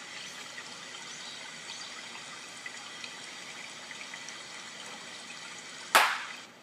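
Steady trickling water with faint drips. Near the end, one sharp hand clap rings out, and the water sound cuts off.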